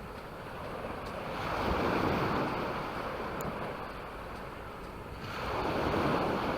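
Sea waves washing onto the beach: two swells of surf about four seconds apart, each rising and then falling away.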